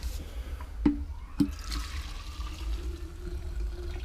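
Old, dirty petrol poured out of a lawnmower's fuel tank into a container: two clicks, then a steady pouring trickle from about a second and a half in, with a faint tone that rises slowly as the container fills.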